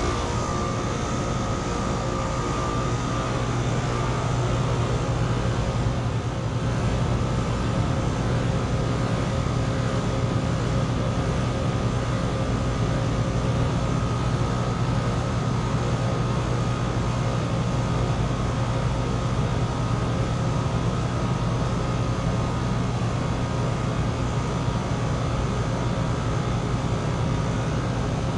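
Outdoor heat pump units running: a steady low compressor hum under the even rush of a condenser fan. A faint high tone fades out about three seconds in.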